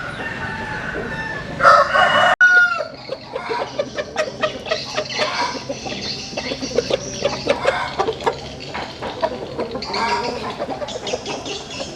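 Chickens clucking in many short calls, with a rooster crowing once near the start and again near the end.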